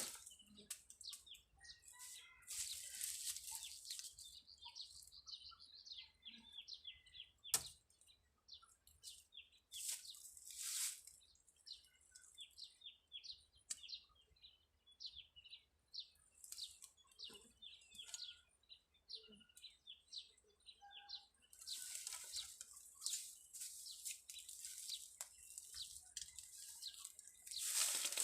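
Birds chirping: many short, quick chirps repeating. Hissing bursts of noise come and go between them, and there is one sharp click about seven and a half seconds in.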